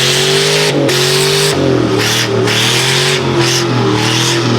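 Vehicle engine held at high revs, its pitch wavering up and down, over a hiss that swells and fades several times, as in a burnout with spinning tyres.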